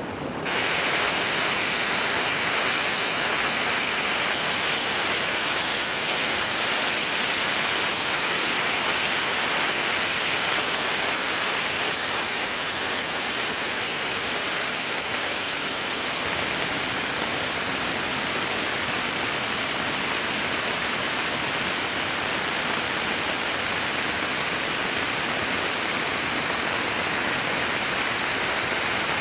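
Heavy tropical rain falling, a dense, steady hiss that holds the same level throughout.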